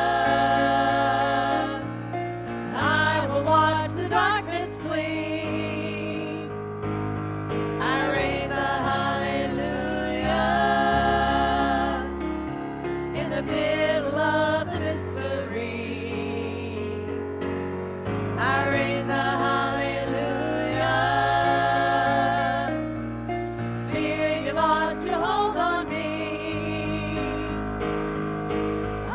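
Gospel-style worship singing with instrumental accompaniment: voices sing melodic phrases of a few seconds each over sustained low chords.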